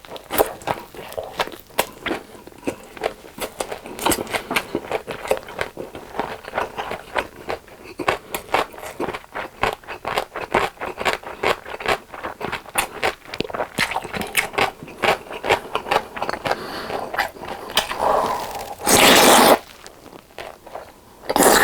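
Takeout food packaging crinkling and rustling as it is handled and opened: a dense run of small crackles, then two louder rustling or tearing bursts near the end.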